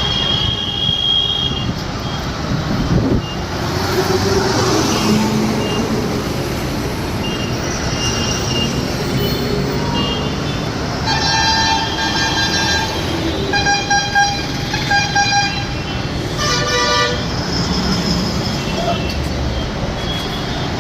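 Steady rumble of a Tata diesel bus engine and road noise while the bus is moving through traffic. About halfway through, vehicle horns of several different pitches honk: one long blast, then a string of short toots, then another short blast.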